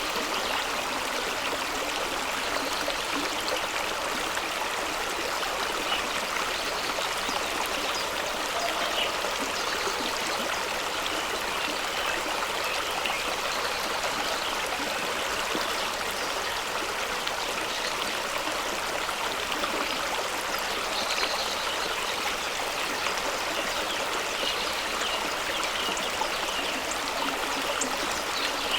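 Fast-running stream rushing and splashing over rocks, a steady, even sound of water with small splashes and gurgles throughout.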